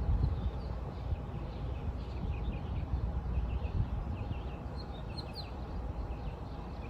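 Small birds chirping in short, scattered high notes, with a quicker, louder flurry about five seconds in, over a steady low rumble.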